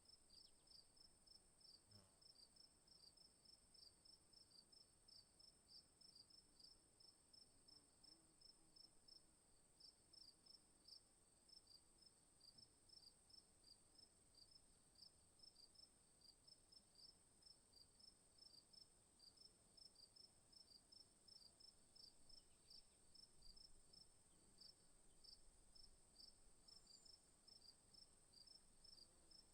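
Faint insect chorus: a steady high-pitched drone with a rhythmic chirp repeating about three times a second, pausing briefly about nine seconds in.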